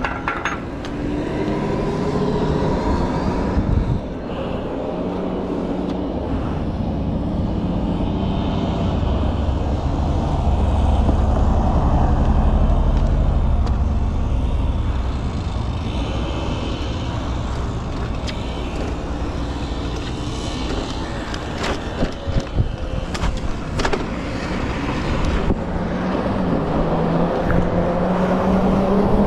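Freego X2 electric dirt bike riding at speed: the motor's whine rises in pitch as it accelerates near the start and again near the end, over heavy wind and tyre rumble. A few sharp knocks come about three-quarters of the way in.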